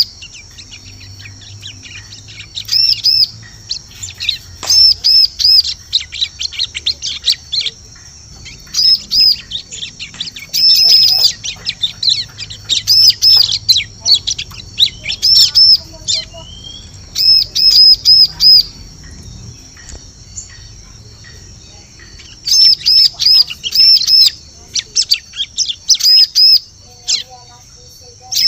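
Bar-winged prinia (ciblek) calling as a lure call: quick runs of three to six high, arched chirps, repeated again and again with short pauses between the runs.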